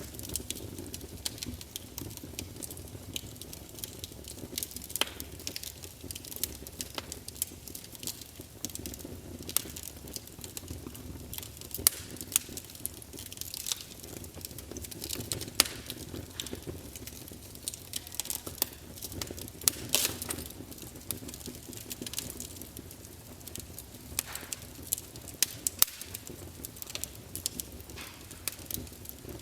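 Campfire burning, with irregular wood crackles and sharp pops over a low steady rumble of flames.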